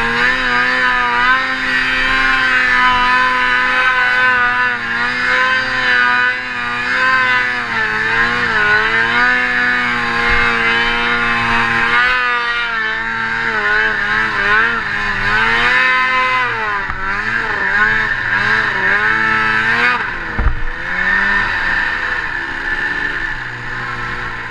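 Snowmobile engine running hard, its pitch rising and falling again and again as the throttle is worked on and off, with a brief dull knock near the end.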